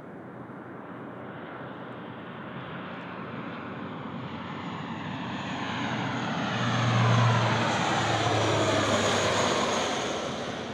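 Airplane passing overhead: the engine noise builds steadily, peaks with a low hum about seven seconds in, then starts to fade as a whooshing pitch sweeps downward.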